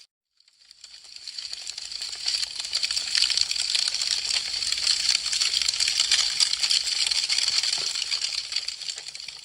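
Wood fire crackling: a dense stream of small pops and snaps from burning branches. It rises out of a brief silence just after the start and tails off near the end.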